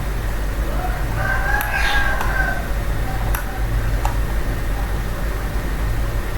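A single drawn-out bird call, about a second and a half long, in the background over a steady low hum, with a few sharp clicks scattered through.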